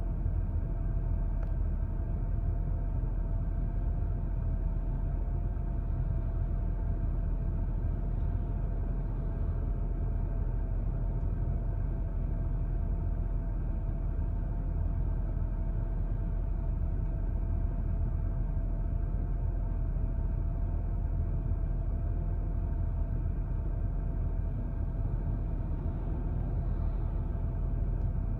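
BMW N52 3.0-litre straight-six idling at about 1,000 rpm, heard from inside the cabin: a steady low rumble with a faint tone above it that wavers slightly. The engine is fitted with a three-stage intake manifold conversion and Active Autowerks headers. Its idle sound is the issue the owner finds annoying, which he puts down to the engine computer and the engine 'trying to figure things out'.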